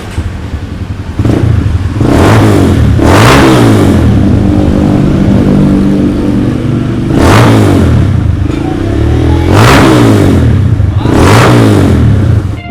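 Kawasaki KLX 150 single-cylinder engine revved repeatedly through its exhaust, several loud blips of the throttle with the pitch rising and falling each time.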